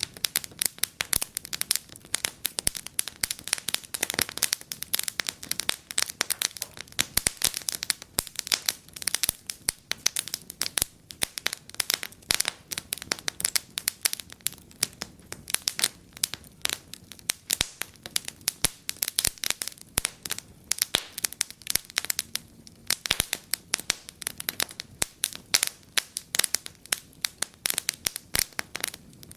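Wood fire burning in a fireplace, crackling and popping with many irregular sharp snaps over a soft hiss.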